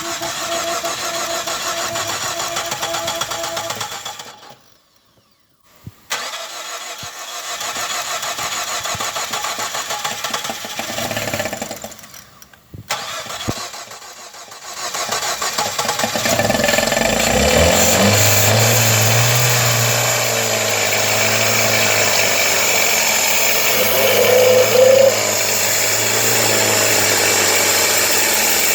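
Replacement engine of a 2014 Ford Fusion. After some mechanical noise broken by two brief drop-outs, the engine starts about sixteen seconds in, its pitch rising quickly as it catches. It then runs steadily.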